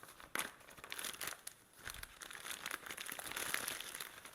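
Plastic Ziploc bag being handled and pulled open, crinkling and rustling in irregular bursts.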